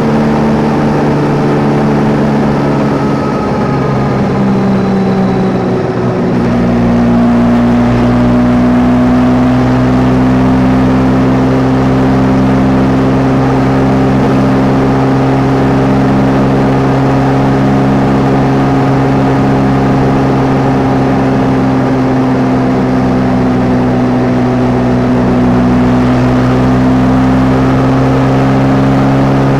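Yamaha Tracer 9 GT's three-cylinder engine, heard from the rider's position. It falls in pitch as the bike slows over the first few seconds, picks up again at about six seconds, and then holds a steady, slightly louder note at constant speed.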